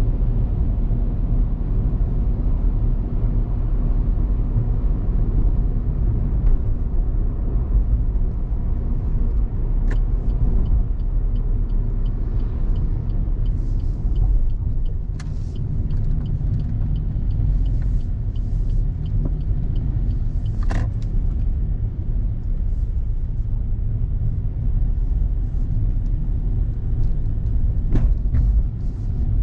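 Car driving on a road: a steady low rumble of engine and tyre noise. In the middle comes a run of quick, regular light ticks, with a few scattered sharp clicks and knocks.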